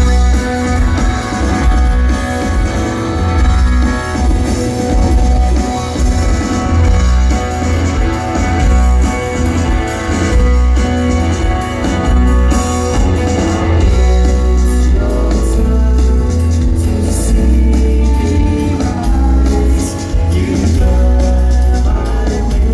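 Live shoegaze rock band playing at full volume: dense distorted electric guitars over heavy bass and drums, with singing at times.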